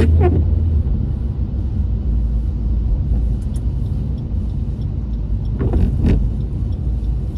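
Steady low road rumble inside a moving car's cabin: engine and tyres running on a wet road.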